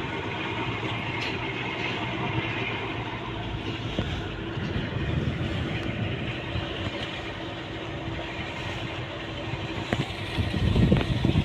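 Tugboat's diesel engine running steadily, growing louder with a deeper rumble about ten seconds in.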